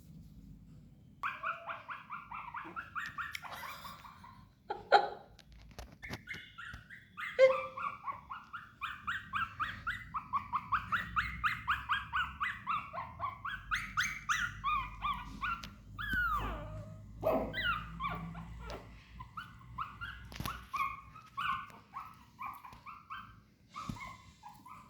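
Shih Tzu puppy whimpering and crying in long runs of short high-pitched cries, several a second, broken by a couple of sharper, louder yelps in the first third.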